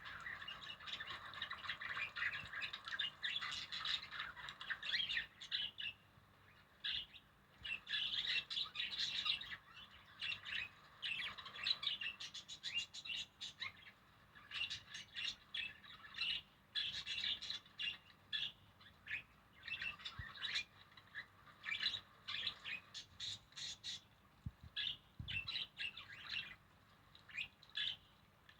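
Small birds chirping and squawking in a rapid chatter, nearly unbroken for the first few seconds, then in short bursts with brief pauses between them.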